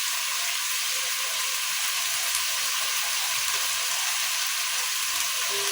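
Steady sizzling hiss of food frying in a pot.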